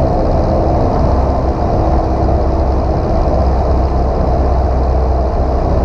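Single-engine piston airplane's engine and propeller droning steadily inside the cockpit in cruise, a constant low hum with steady tones over it.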